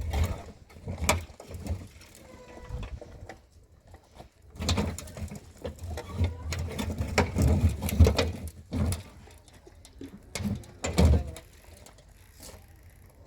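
Irregular knocking and clattering of hard objects being handled, with heavier low thuds in clusters about halfway through and again near the end.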